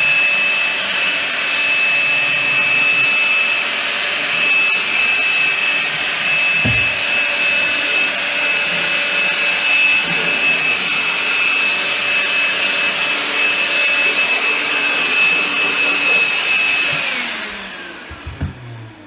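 Milwaukee M12 cordless handheld vacuum running steadily with a high, even whine as it sucks up drilling dust, then winding down about 17 seconds in.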